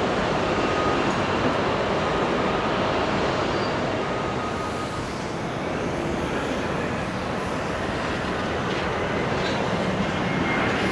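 Jet airliner engines running, a loud steady rumble with faint whining tones above it.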